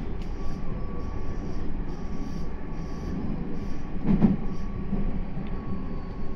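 Meitetsu 3300 series electric train running, heard from the driver's cab: a steady rumble of wheels on rail, with a heavier knock about four seconds in and faint high-pitched pulses repeating through the first few seconds.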